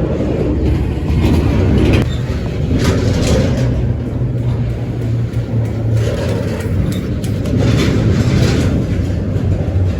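Freight train led by a BNSF diesel locomotive passing, with a steady low diesel rumble and repeated bursts of higher-pitched wheel-on-rail noise.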